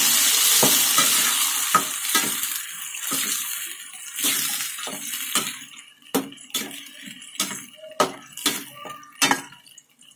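Freshly added ground masala paste sizzling in hot oil in a steel kadai, the sizzle dying away over the first few seconds. A slotted metal spatula then stirs it, scraping and knocking against the pan about twice a second in the second half.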